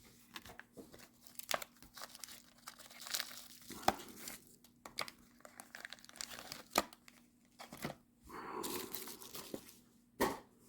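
Packaging being handled and unwrapped: irregular crinkling, rustling and small tearing noises with light clicks and taps, a longer rustle near the end and one sharper knock just before it ends.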